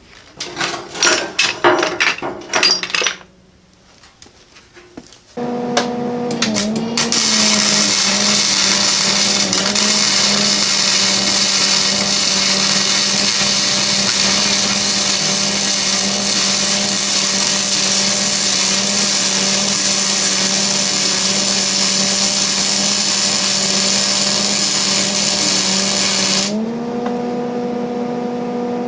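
A few seconds of metal pieces clattering, then an electric power tool starts and, a couple of seconds later, cuts into metal with a loud, hissing grind, its motor pitch sagging under the load. Near the end the cut stops and the motor runs on unloaded, its pitch rising back up.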